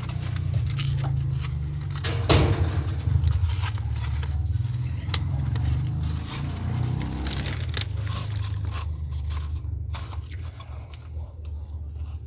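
Scraping, crunching and clattering of objects being handled, with many short clicks and one louder knock about two seconds in, over a steady low hum that fades in the last few seconds.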